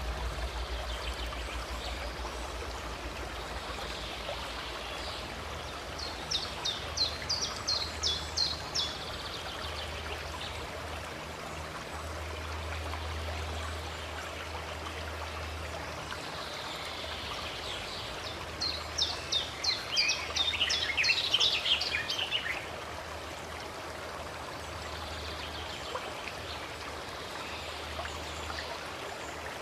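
Steady rush of running stream water, with a small songbird singing two bouts of quick repeated notes, the first about a fifth of the way in and the second about two-thirds through.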